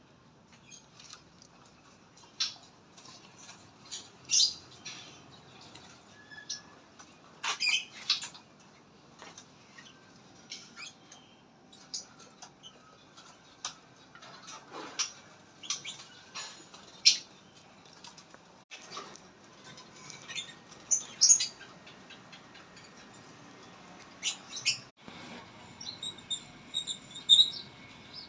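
Small birds chirping in short, sharp, irregular chirps, some much louder than others, with a quick run of repeated higher notes near the end.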